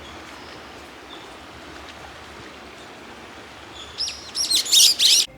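A songbird singing loudly near the end: a quick run of high, sweeping whistled notes lasting about a second, which cuts off suddenly. Before it there is a steady outdoor hiss.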